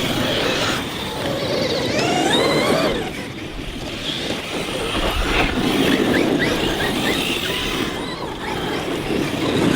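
Large brushless electric RC monster trucks (Arrma Kraton and Traxxas X-Maxx) driving on a dirt track. Their motors whine up and down in pitch as the throttle is worked, several times over a steady noisy background.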